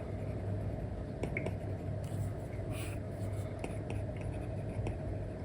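Apple Pencil tip on an iPad screen with a paper-like film, making short scratchy drawing strokes and scattered light taps over a steady low hum.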